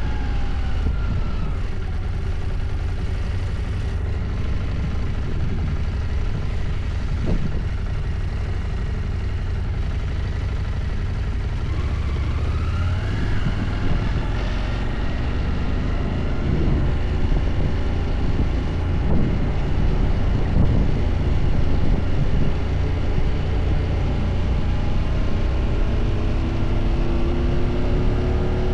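Husqvarna motorcycle engine running under way, heavy wind rumble on the microphone. The engine pitch rises about twelve seconds in and again near the end as it accelerates.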